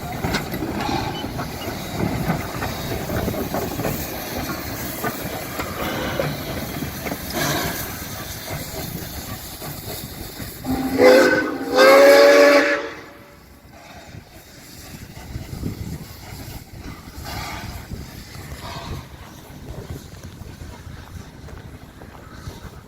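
Cockle Train steam locomotive hissing steady steam, then sounding its whistle in two short blasts about eleven seconds in, the second a little longer. Afterwards only a quieter steady hiss remains.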